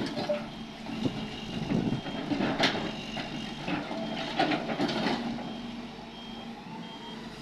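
Heavy diesel machinery running, with a reversing alarm giving a steady series of short high beeps and a few sharp clanks of rock and steel.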